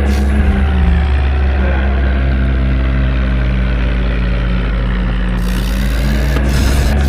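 Tractor engine running loud and steady, its pitch sinking slowly as the engine slows, then climbing again near the end as it picks up speed.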